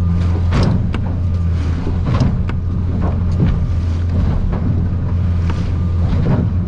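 Outboard engine running steadily, heard from inside the aluminium boat's cabin, with irregular slaps and knocks as waves and spray hit the hull in rough water.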